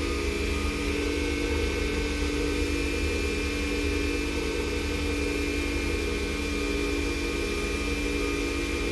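Small pen-turning lathe running at a steady speed with an even hum, spinning a padauk pen blank while it is buffed with abrasive polish on a paper towel.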